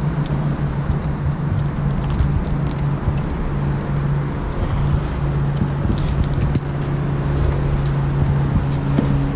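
Small fishing boat's motor running with a steady low hum, and a few light clicks about six seconds in.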